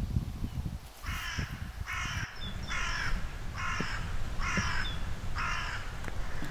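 A bird calling six times in a row, harsh cawing calls about a second apart, over a steady low rumble.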